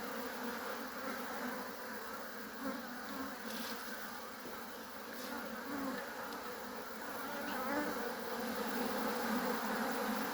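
Honeybee colony buzzing steadily, many bees in the air around a hive opened for inspection.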